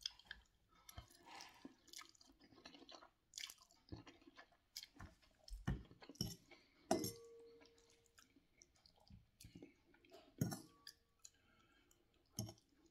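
Quiet chewing of a mouthful of spicy instant noodles, with scattered small mouth and fork sounds. A metal fork clinks against the glass bowl a couple of times, the sharpest about seven and ten seconds in, each with a brief ring.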